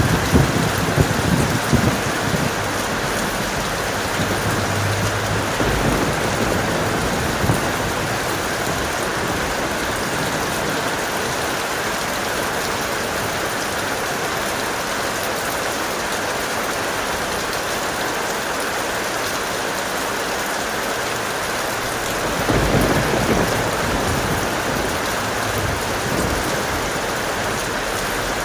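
Steady heavy rain with thunder: a crackling rumble right at the start, and another deep rumble about 22 seconds in.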